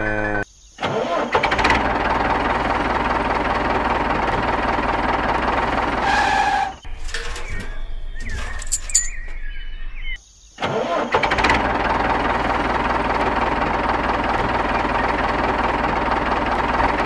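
Tractor engine running steadily, breaking off briefly twice.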